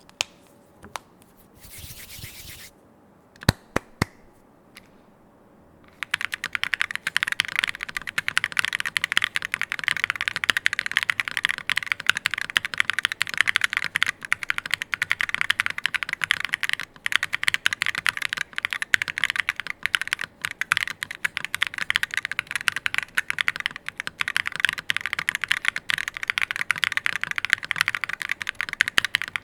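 Custom mechanical keyboard with SquisHE Hall Effect switches, PBT keycaps, an aluminium plate and a gummy O-ring mount being typed on. A few scattered keystrokes come first, then fast, continuous typing starts about six seconds in.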